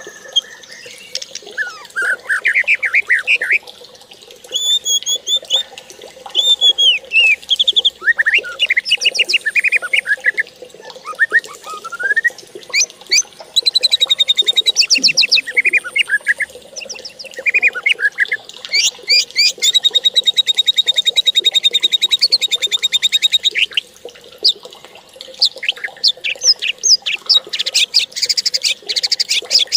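Birdsong: a varied stream of chirps and whistled phrases, with long rapid trills about a third of the way in and again near the middle.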